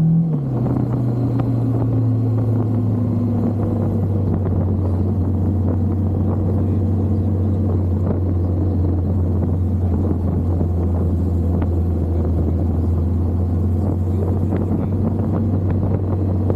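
Motorcycle engine running under way. Its pitch drops about half a second in, then holds steady.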